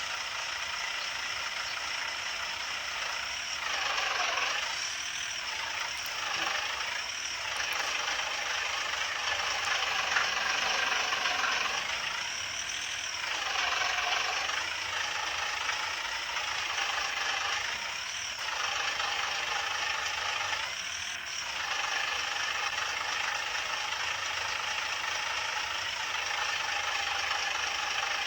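Cartoon construction-truck engine sound effect: a steady mechanical drone that swells and dips in pitch several times, as the machines work and move.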